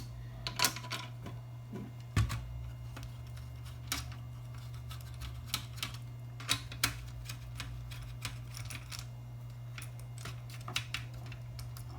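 Irregular sharp metallic clicks and taps of a 10 mm wrench working a nut loose on an amplifier's metal chassis, with a few louder knocks, over a steady low hum.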